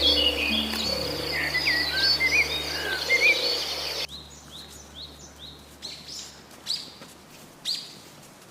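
Birds chirping and singing over a low, steady background drone. About four seconds in, the drone and the dense birdsong cut off abruptly, leaving a series of short falling chirps, two of them louder near the end.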